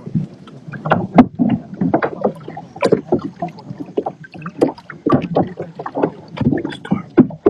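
Water splashing and sloshing around kayaks in many short, irregular splashes.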